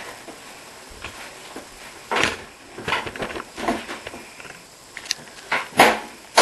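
Clatter and knocks of a screwdriver and hands working on a dishwasher's sheet-metal side panel while its screws are undone. The knocks come irregularly from about two seconds in, louder toward the end.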